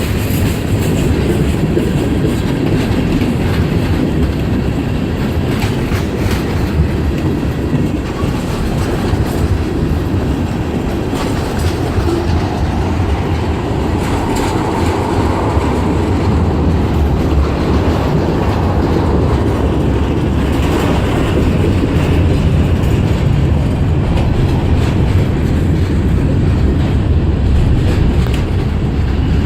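CSX freight train rolling slowly past, its steel wheels clicking over the rail joints with a steady low rumble.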